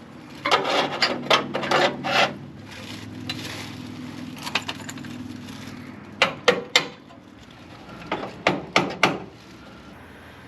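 Angle grinder taking down a fresh weld on a steel car frame rail, in a series of short scraping passes over the low hum of the running grinder.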